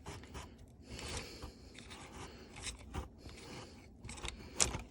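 Hand tools and parts being worked in an engine bay: quiet scraping and rubbing with a few light clicks, and one sharper click near the end.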